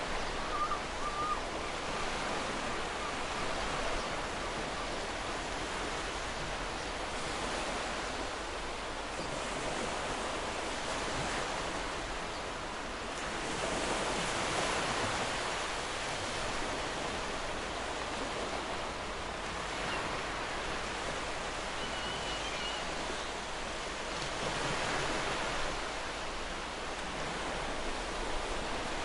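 Ocean surf washing onto a beach: a steady rushing hiss that swells as waves break, most noticeably around the middle and again near the end.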